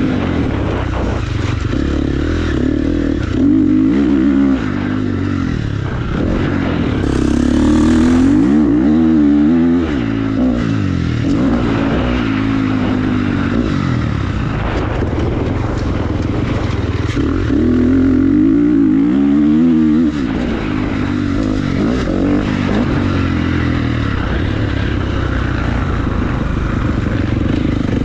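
Motocross bike engine being ridden hard, its pitch rising under throttle and dropping back several times as the rider opens and closes the throttle.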